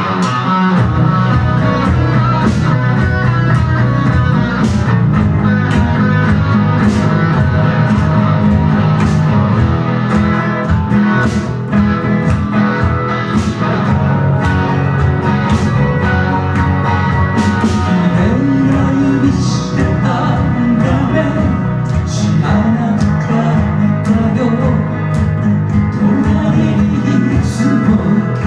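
Live rock band playing a song: guitars over bass and drums, kicking in all at once and playing steadily on.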